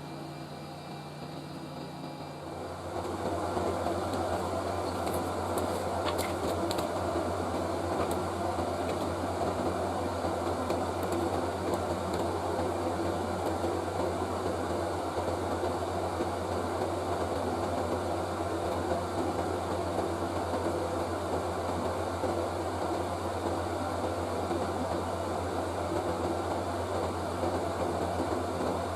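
A small electric blower switches on about three seconds in and runs steadily, a whirring rush with a low hum under it.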